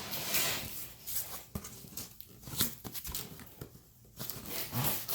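Plastic packing straps and cardboard packaging being worked loose by hand: irregular rustling and scraping with a few sharp clicks.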